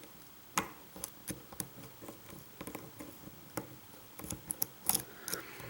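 Faint, irregular metallic clicks and ticks of a hook pick working the pins of a pin-tumbler lock under light tension from a Z-bar tension wrench. Two sharper clicks stand out, about half a second in and near five seconds.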